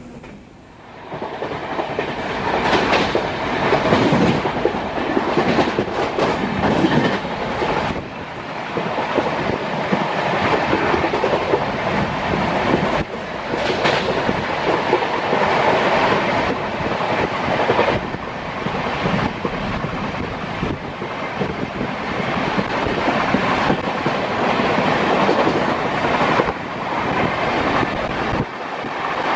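Passenger train coaches running at about 117 km/h, heard at the open coach doorway: a steady rush of wheel, rail and wind noise with a few sharper knocks. The noise jumps up about a second in.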